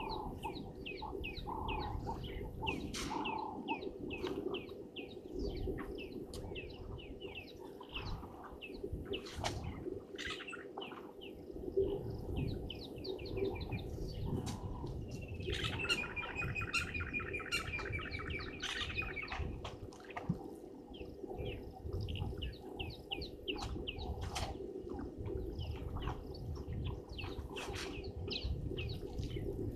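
Birds chirping in quick repeated notes, with a louder rapid chattering call for about three seconds around the middle, over a low outdoor rumble and a faint steady hum.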